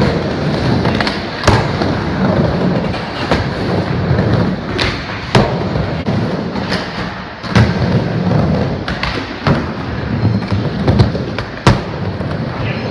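Skateboard wheels rolling with a steady rumble, broken several times by sharp cracks of the board slapping down and landing.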